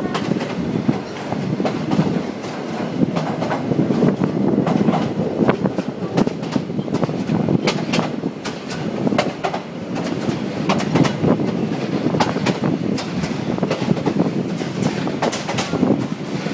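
Yangon circular train running along the track, a steady rumble of the carriage with frequent irregular clicks and rattles as the wheels clatter over the rails, heard from inside the carriage at an open window.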